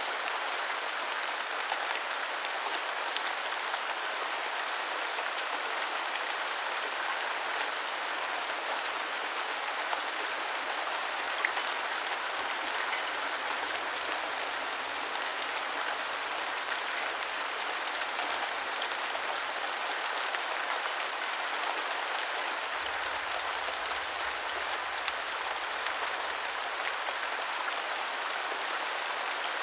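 Steady rain falling, a dense even hiss with scattered sharp drop ticks.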